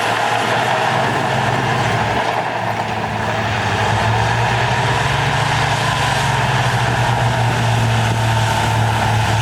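Heavy diesel earthmoving machinery running steadily under load, a deep engine drone that eases slightly and then builds again a few seconds in.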